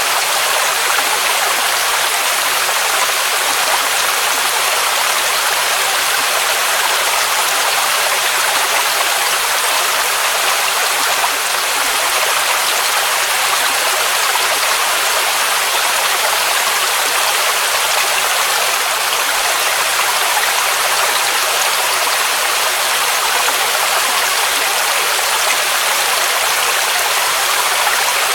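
Waterfall rushing steadily: a dense, even hiss of falling water, mostly high and bright, with little deep rumble.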